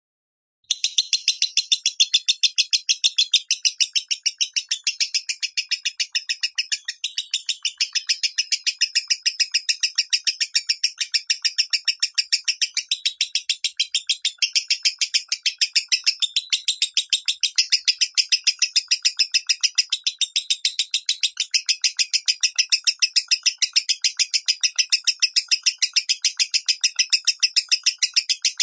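Lovebird singing its 'minor' voice: a long, unbroken run of rapid, evenly spaced high chirps, several a second, starting just under a second in.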